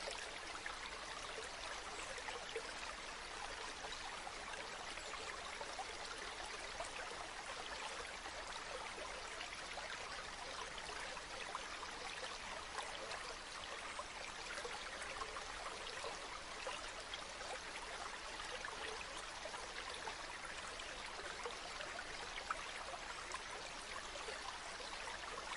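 River water flowing: a steady, unbroken rush dotted with many small splashes and trickles.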